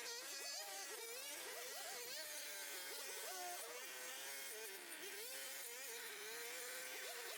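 A small motor buzzing, its pitch rising and falling irregularly as it works.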